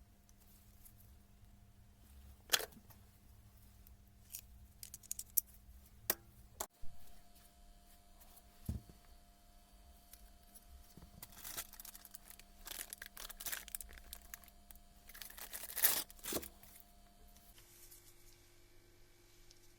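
Workbench handling noises: scattered clicks and light knocks of parts and hand tools being picked up and set down, with a stretch of rustling and scraping in the middle, over a steady low hum.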